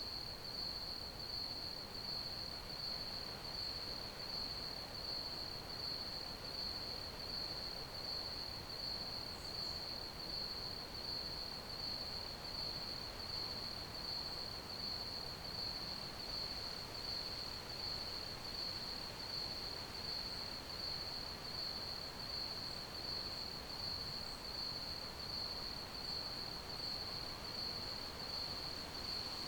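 Crickets chirping in a steady, even rhythm, one high-pitched pulsing trill over a faint background hiss.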